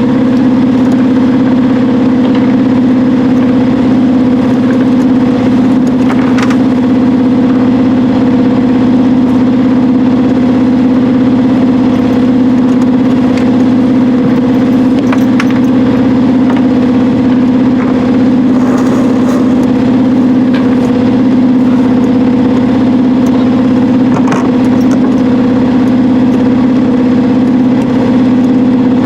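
Sailboat's auxiliary engine running at a steady speed, a constant low hum with a few faint clicks over it.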